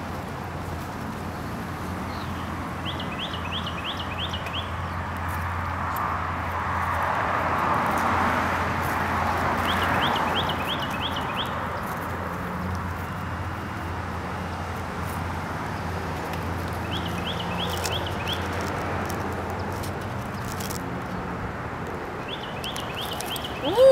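A songbird singing a short, rapid phrase of five or six high notes, repeated about every seven seconds, over a steady rush of background noise that swells midway.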